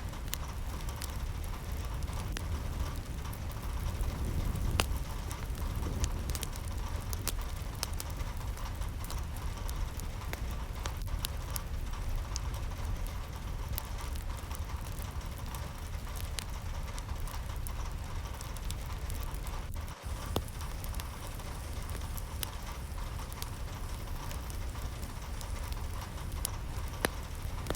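Steady rain with many scattered drips and patters over a low rumble, with a brief dropout about twenty seconds in.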